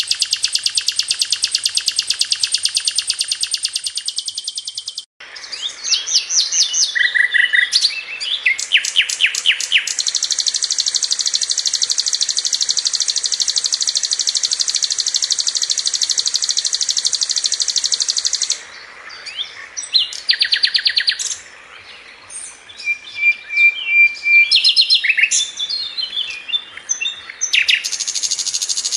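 Sikatan londo flycatcher song: long, fast, steady high trills, broken by bursts of sharp chirps, rapid note runs and short whistled phrases. The first trill cuts off abruptly about five seconds in.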